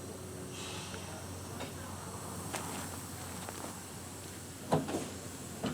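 A few sharp clicks and knocks over a faint steady hum, the loudest about three-quarters of the way through: the first wheel clicks of a rail car beginning to roll over rail joints.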